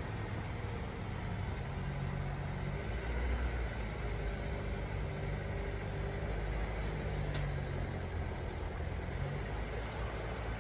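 A road vehicle's engine running steadily at low speed, a low hum that drifts slightly in pitch, over a constant rushing noise.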